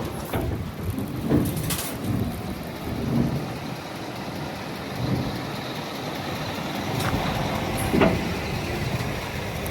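Scania P320 truck running, with a few irregular knocks and clunks over a steady mechanical noise.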